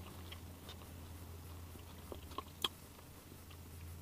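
Quiet chewing of crisp fried potato chips, with a few soft clicks, the sharpest about two-thirds of the way in, over a steady low hum.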